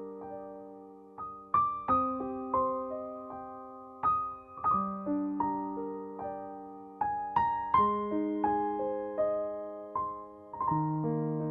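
Soft background piano music: slow chords with notes that decay after each strike.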